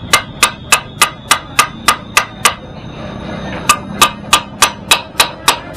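Hammer striking metal in a quick steady rhythm, about three ringing blows a second. There is a pause of about a second midway before the blows resume.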